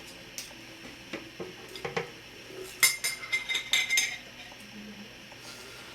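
Glass jar being handled: scattered clinks and taps, with a cluster of sharper clinks and a brief steady high ring about three seconds in.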